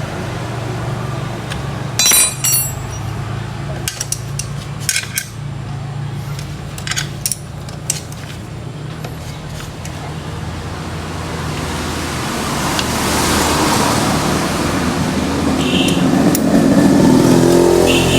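Sharp metal clinks of a wrench and bolts as a motorcycle starter motor is refitted, a handful of them in the first half, over a steady low hum. A broad rushing noise swells over the last several seconds.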